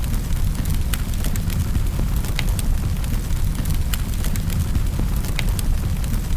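Wood fire crackling in a fireplace: a steady low rumble with sharp pops and snaps at irregular moments.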